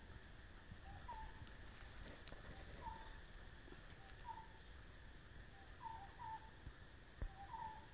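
A bird calling faintly in the background: a short two-note call, a lower note then a higher one, repeated every second or so. Under it is a steady faint hiss, with one soft knock about seven seconds in.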